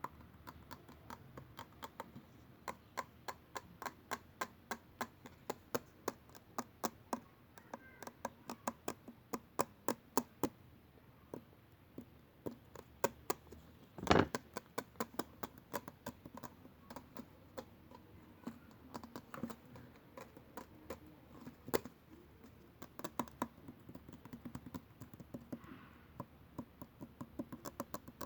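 Fingers tapping and clicking quickly and lightly, several clicks a second, like typing, with one louder knock about fourteen seconds in.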